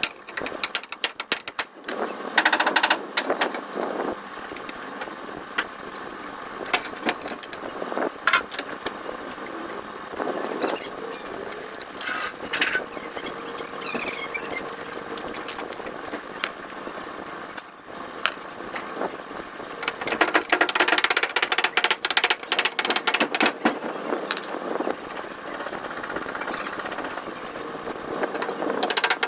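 Bursts of rapid mechanical tapping, a tool hammering during car bodywork repair, with scattered single knocks in between; the longest burst comes about two-thirds of the way through.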